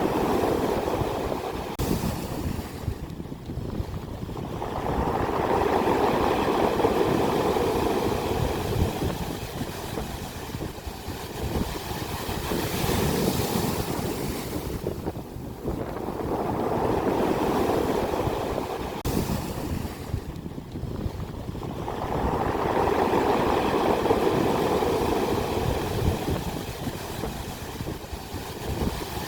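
Ocean waves breaking on the shore, the surf swelling and fading about every five to six seconds, with wind rumbling on the microphone.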